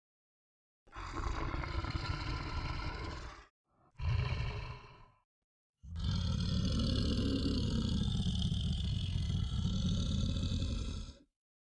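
Roar sound effect, three roars cut one after another with dead silence between them; the last one is the longest, about five seconds.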